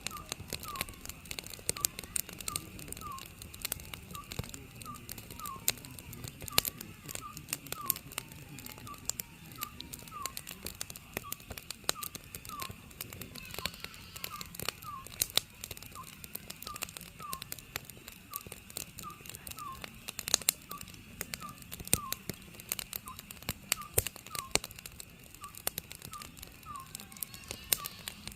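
An Oriental scops owl calling, short slightly falling hoots repeated over and over, roughly one or two a second, over a wood fire crackling with frequent sharp pops.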